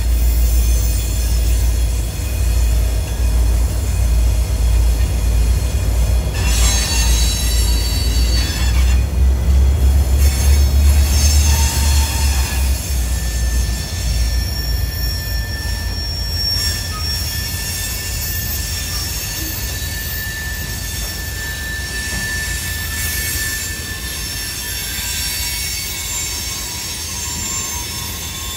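Portland & Western EMD GP39-2 diesel locomotives passing close by with a loud, deep engine rumble. The rumble eases about halfway through as the freight cars follow, their wheels giving off steady high-pitched squeal.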